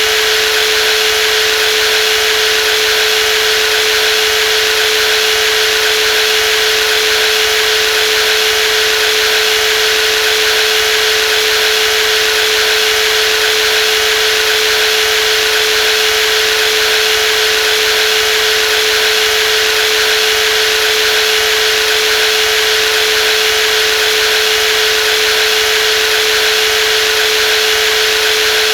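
Brushless jigsaw running steadily at constant speed: a steady mid-pitched hum over a hissing whir, with no change in pitch or level.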